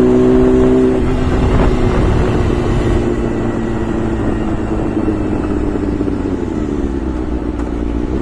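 Honda CBR600 F4i's inline-four engine running at steady revs; about a second in its note drops in level and gets harder to make out. Near the end the pitch falls, then the note picks up again.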